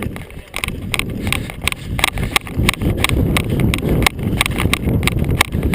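Irregular clicks and knocks, several a second, over a low rumble of movement, typical of an airsoft player walking with gear rattling and brushing against the microphone.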